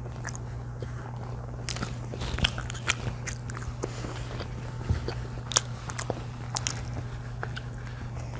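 Close-miked eating sounds from a pizza and cheese stick meal: chewing and biting, with irregular crisp crackles and clicks. A steady low hum runs underneath.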